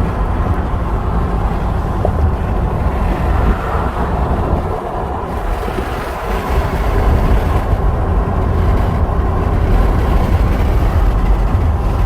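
Car driving: steady low road and engine noise with some wind, easing slightly about five seconds in.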